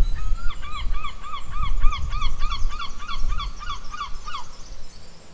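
Giant panda calling: a fast run of short, repeated high honking chirps, about three a second, that stops about four and a half seconds in.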